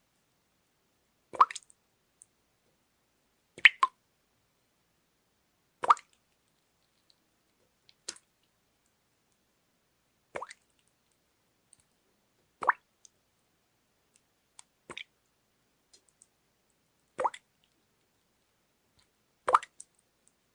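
Water drops falling one at a time at a slow, even pace, a sharp plop about every two and a quarter seconds with silence between.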